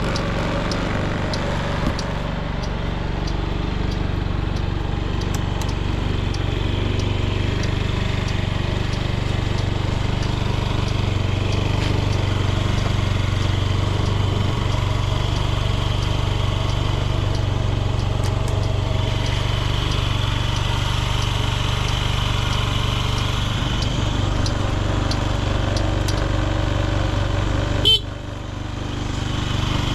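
Honda Smart Dio AF56 scooter's carbureted 49 cc four-stroke single idling steadily, running smoothly with no abnormal noises. Near the end there is a sharp click, and the sound dips briefly before it returns.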